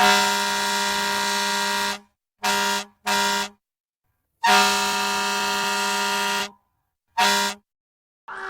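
Fire truck air horn sounding a pattern of blasts: a long blast of about two seconds, two short ones, another long one and a final short one, each cutting off cleanly into silence.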